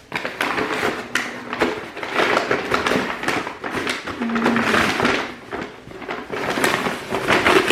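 Packaging rustling and crinkling as a purchase is unwrapped by hand, a dense run of irregular crackles with a few small knocks.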